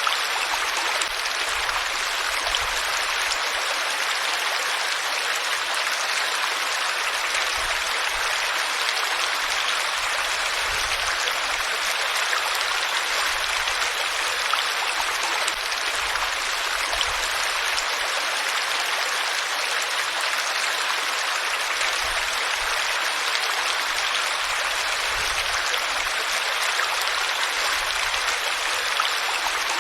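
Running water, a steady, even rush of flowing water with faint small splashes throughout.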